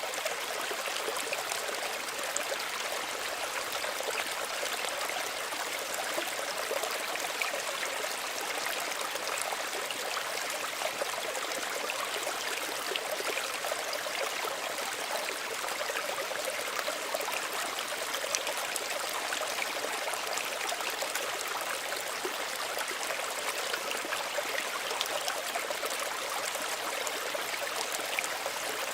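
A small stream of running water trickling and burbling steadily over stones, with a fine splashy texture and no change throughout.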